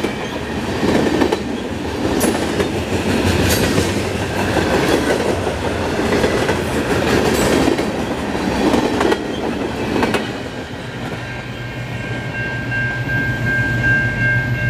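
Freight train tank cars rolling past, steel wheels rumbling and clacking over the rail joints with sharp clicks every second or two. About twelve seconds in the rolling noise eases, and a steady high tone and a low hum take over.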